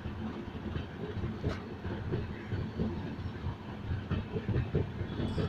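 Passenger train running on the track: a steady rumble with a quick, uneven run of low knocks from the wheels, and one sharper click about a second and a half in.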